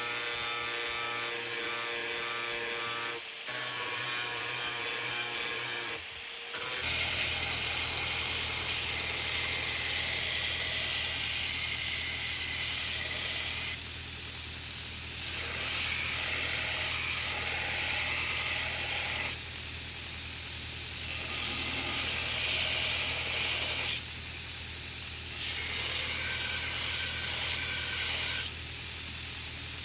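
Power grinder running against a steel knife blade: a steady motor hum under a high grinding hiss, in several short clips joined by abrupt cuts that change the hiss each time.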